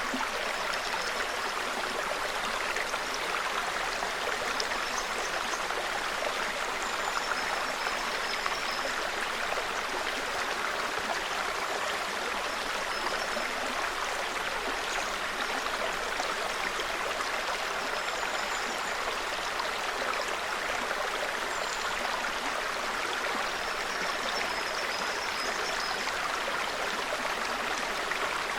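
A small forest stream runs steadily with an even rushing babble. Faint, short, high bird calls come and go over it every few seconds.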